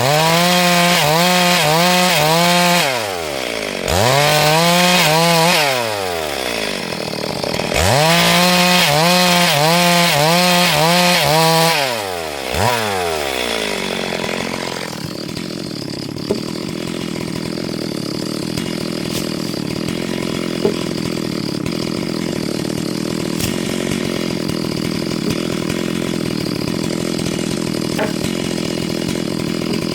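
Two-stroke chainsaw cutting wood at full throttle in three spells over the first twelve seconds, its pitch dropping back between them. It then settles to a steady idle about halfway through.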